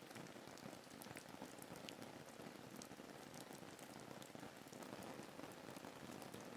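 Steady rain ambience: a soft, even hiss of falling rain with scattered ticks of single drops.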